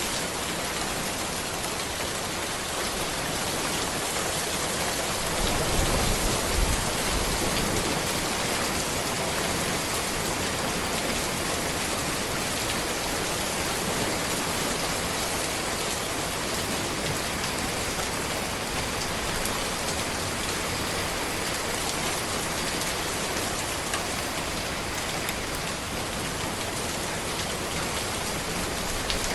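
Steady rain falling on a road, an even hiss of many drops, with a brief low rumble about six seconds in.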